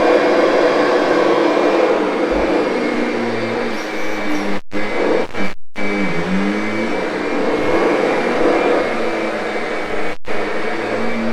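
Kirby upright vacuum cleaner running continuously while it is pushed over carpet with its brush roll turning. Its pitch wavers and bends in the middle as the load on it changes.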